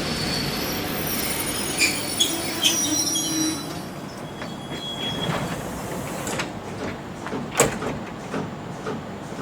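EP2D electric multiple unit running, with high-pitched wheel squeals over the rolling noise for the first few seconds. The noise then fades, leaving scattered clicks and knocks, one sharp louder click about three quarters of the way through.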